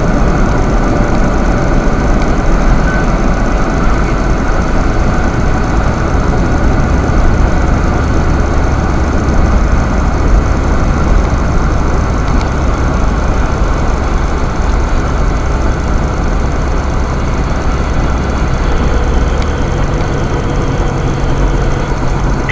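Road and engine noise inside a moving car's cabin: a steady low engine hum under dense tyre and wind noise. Near the end the engine's low hum shifts to a different pitch.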